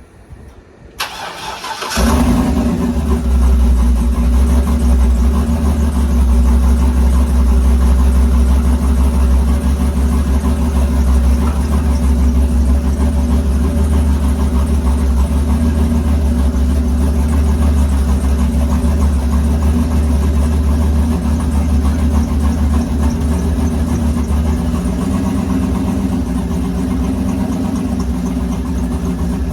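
Turbocharged LS V8 with a BTR turbo cam on its first start: the starter cranks briefly about a second in, the engine fires about two seconds in and settles into a steady idle with a deep rumble.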